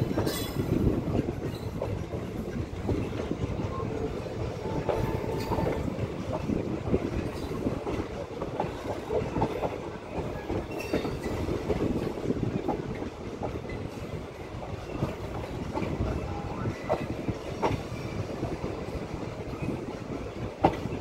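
Indian Railways passenger coach rolling along the track, heard from its open window: a steady rumble of wheels on rail, with irregular clacks as the wheels cross rail joints.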